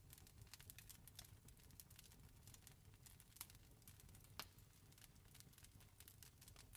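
Faint wood campfire crackling: irregular sharp pops and snaps of burning wood, a few louder than the rest, over a low steady rumble.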